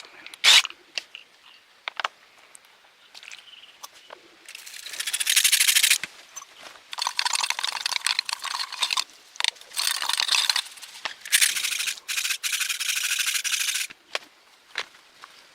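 Abrasive rubbing on a hard surface, as in sanding or filing, in four bursts of one to two seconds each, with a couple of sharp clicks near the start.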